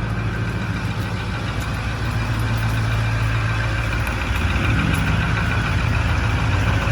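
2008 Ford F-350's 6.4-litre Power Stroke diesel V8 idling steadily just after a cold start, getting a little louder about four seconds in.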